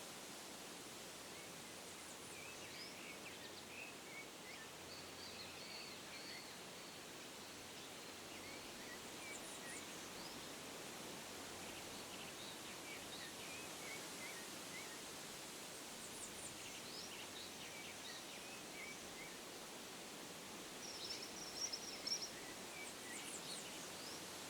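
Faint outdoor nature ambience: small birds chirping now and then over a steady soft hiss, with a brief louder flurry of chirps a few seconds before the end.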